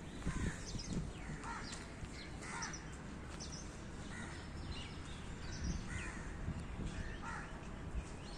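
Birds calling: a dozen or so short calls scattered through, over a low steady background rumble.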